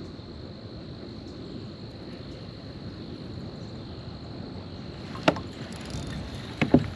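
Steady low outdoor background noise with a faint, high, steady tone. Then a sharp knock about five seconds in and two quick knocks just before the end.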